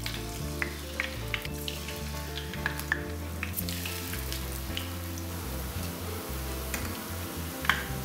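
Batter-coated sheets of laver deep-frying in cooking oil in a frying pan: a steady sizzle with scattered crackles and pops, and one sharper pop near the end.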